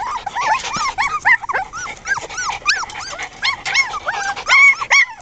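A litter of about five-week-old puppies yipping and whimpering, many short high rising-and-falling cries overlapping in quick succession.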